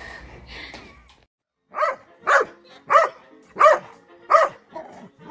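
A dog barking in a steady rhythm, about six barks spaced well under a second apart, starting about two seconds in after a brief silence.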